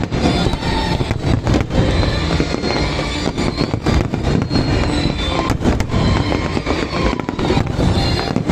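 Aerial fireworks display going off in rapid succession: a dense run of bangs and crackling bursts, several a second, with the show's pyromusical soundtrack playing underneath.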